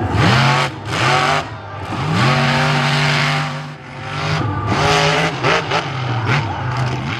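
Monster truck engine revving hard, climbing to high revs and holding them for about a second and a half, then dropping off into several quick rev blips.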